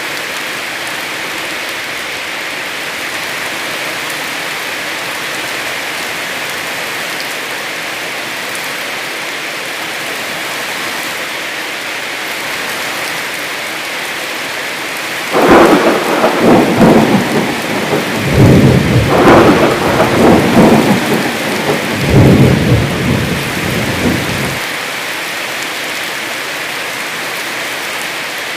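Heavy rain falling steadily, with a loud clap of thunder a little past halfway that rolls on in several surges for about nine seconds before cutting off.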